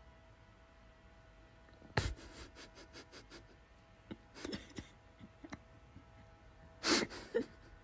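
A faint steady hum with a run of light clicks and taps, about four a second, starting two seconds in, a second cluster of clicks a little later, and a louder short scrape or rustle near the end.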